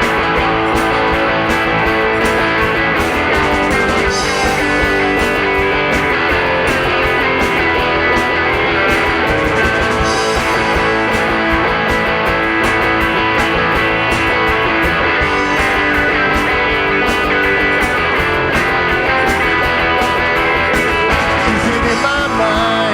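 A rock band playing live: a guitar-led instrumental passage with no vocals, over drums keeping a steady beat.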